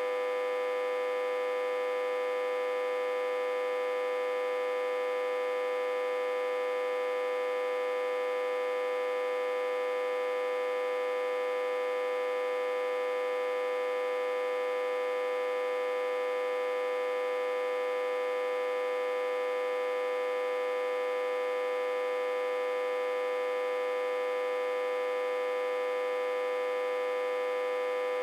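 Autotransformer humming steadily: one strong, unchanging tone with many higher overtones, running at about 60–80 V fed through a step-down transformer connected in reverse.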